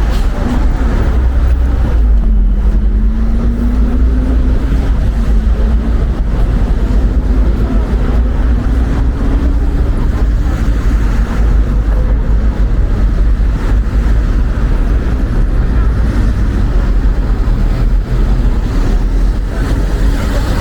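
Wind buffeting the microphone as a steady, loud low rumble over street noise, with a faint steady hum from about two to ten seconds in.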